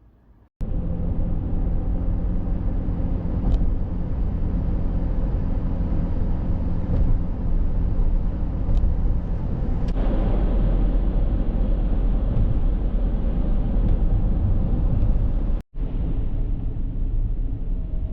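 Steady low rumble of a moving road vehicle's engine and running gear. A few faint clicks sit over it, and it breaks off for an instant near the end.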